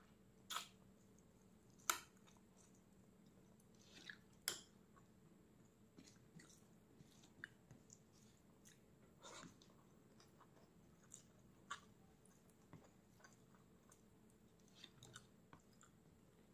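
Close-miked chewing of food, faint, with scattered sharp wet clicks and smacks; a few louder ones come in the first five seconds.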